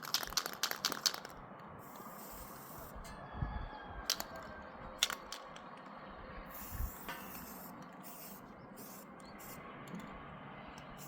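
A quick run of rattling clicks in the first second, then a few scattered knocks and clicks.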